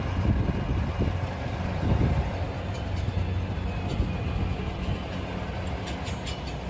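A tractor's diesel engine running steadily, a strong low hum that eases down slightly over the seconds.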